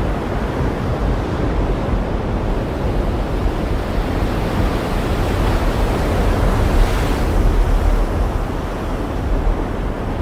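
Ocean surf washing steadily over a deep low rumble. A wave breaks with a swelling hiss about seven seconds in.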